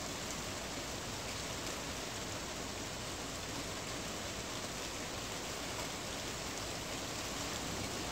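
Steady rain falling on a tin roof, a dense even hiss of drumming drops with faint individual pattering ticks.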